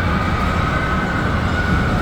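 Amusement ride machinery running: a steady rumble with a continuous high squeal over it.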